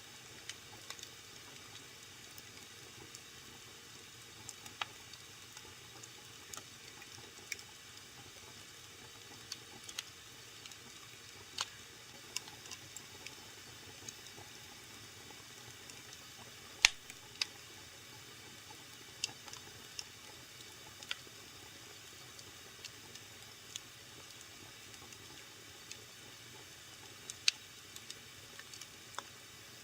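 Wood fire crackling in a fireplace: irregular sharp pops and snaps over a faint steady hiss, the loudest snap about halfway through and another near the end.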